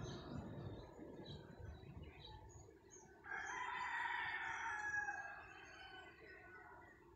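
A bird's long call that starts suddenly about three seconds in and fades out about two seconds later, with short high bird chirps scattered around it.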